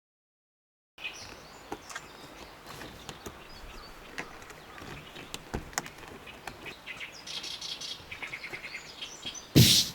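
A second of dead silence, then birds chirping over a low outdoor background with scattered small clicks, a fast chirping trill about seven seconds in, and a loud short thump just before the end.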